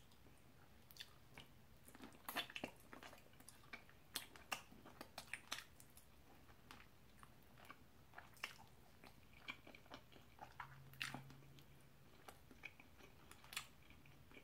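Faint chewing and biting on a Buffalo chicken wing: irregular short clicks from the mouth, several a second at times.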